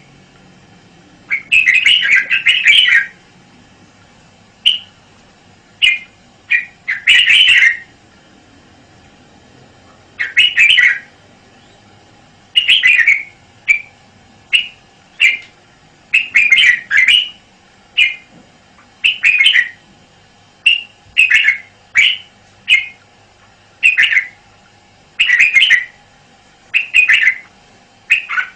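Red-whiskered bulbul singing: short bright chirping phrases repeated every second or two, sometimes in quick runs, over a faint steady hum.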